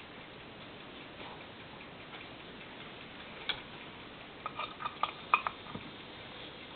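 Poppy Sound radio receiver giving a steady static hiss, with a sharp click about halfway through and a quick run of clicks and crackles soon after.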